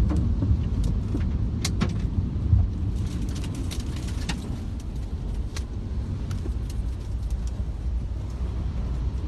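Strong storm wind rumbling low and steady, with scattered sharp ticks and clicks mixed in.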